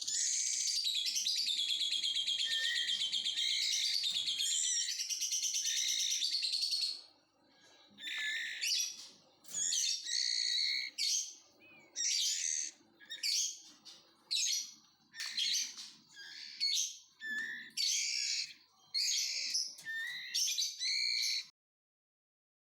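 White-rumped shama chicks, about two weeks old, calling in high chirps: a rapid, unbroken chatter for the first seven seconds or so, then a run of separate short calls about once or twice a second, cutting off abruptly near the end.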